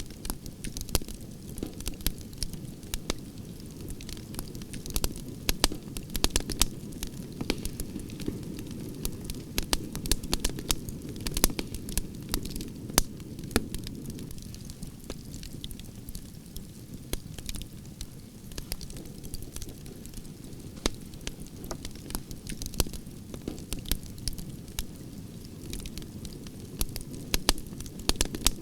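Campfire of burning branches crackling and popping, with a steady low rumble of flames under irregular sharp snaps.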